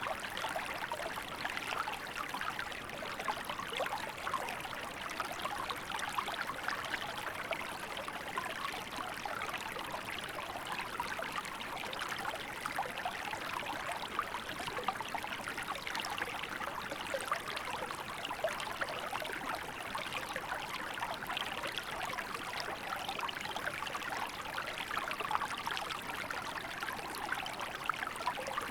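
Small river flowing steadily over stones, an even rushing babble with fine splashing and trickling.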